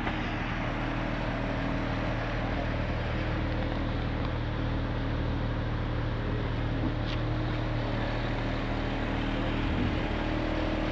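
Car engine idling steadily, an even low hum with a constant rush over it.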